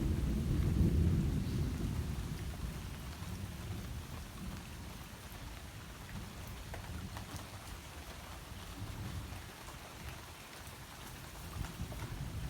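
Steady rain falling, with a low rumble of thunder that dies away over the first few seconds and swells again a little near the end.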